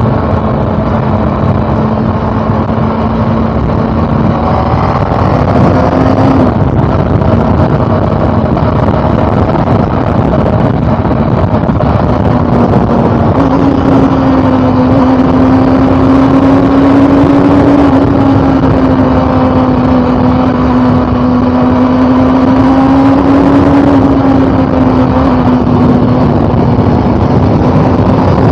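Honda CB400 Super Four's inline four-cylinder engine running under way at a fairly steady speed, its note briefly rising and dropping about a quarter of the way in and stepping up in pitch about halfway, over a steady rush of wind noise.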